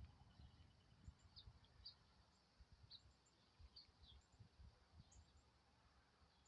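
Near silence with faint, brief high bird chirps scattered throughout, several a second at times, over a few faint low knocks.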